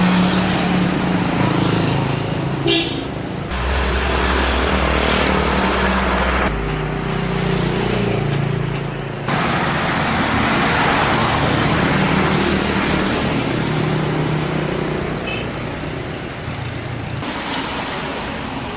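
Street traffic: motor vehicles running and passing, engines humming over road noise, heard in several short clips joined with abrupt cuts.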